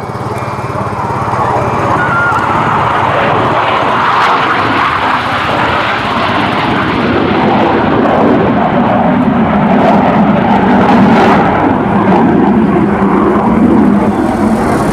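Two US Navy F/A-18 Hornet jets passing low and slow in carrier landing configuration, their jet engines giving a loud, steady roar. The roar builds over the first two seconds and stays loud.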